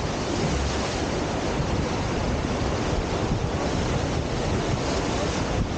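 Steady rushing whitewater of a standing river surf wave.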